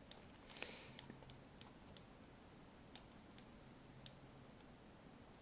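Faint, irregular clicks of a computer mouse and keyboard, about nine in all, with a short soft hiss about half a second in.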